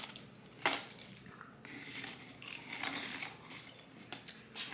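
A few quiet clicks and rustles of hands at a tube of Pringles crisps as another crisp is taken out, with a sharper click under a second in and another about three seconds in.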